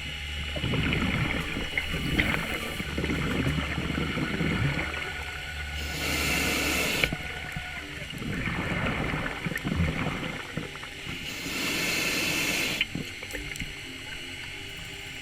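Scuba breathing heard underwater through a regulator: a short hiss of inhaled air, then a long burble of exhaled bubbles, twice over.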